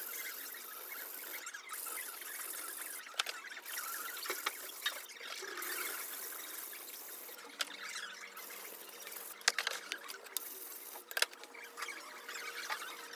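Sashimi knife blade being ground back and forth by hand on a wet whetstone: a continuous gritty, wet scraping, broken by short pauses every couple of seconds, with a few sharp clicks of the blade against the stone.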